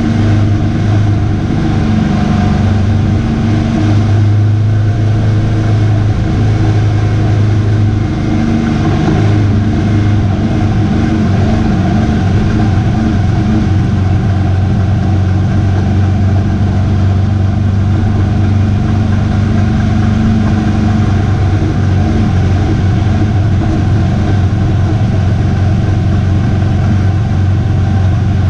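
A race truck's V8 engine running hard and steadily, its note holding with only slight shifts in pitch.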